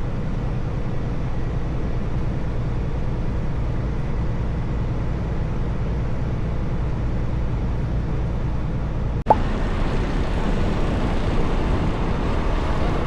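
Steady low rumble of a running truck, heard as engine and road noise. About nine seconds in it cuts off sharply with a click, and the noise that follows is hissier.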